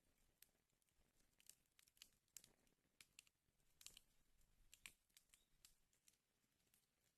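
Fire burning in a fireplace, faint and crackling: irregular sharp pops and snaps, about a dozen, over a soft low hiss.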